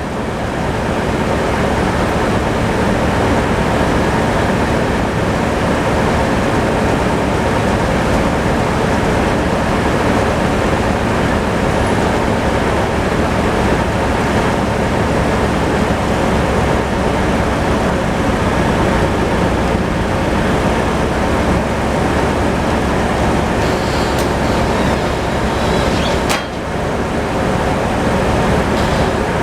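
Tractor-powered sawmill cutting through a log: the saw and engine run loud and steady, building up in the first second or two. A brief dip with a sharp knock comes near the end.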